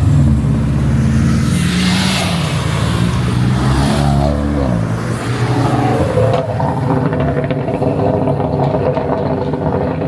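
A car engine revving and accelerating past. Its pitch shifts around four seconds in, and after that a steadier engine note carries on.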